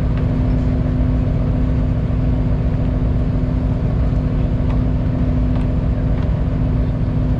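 Fishing boat's engine running steadily at a constant pitch, a continuous low hum.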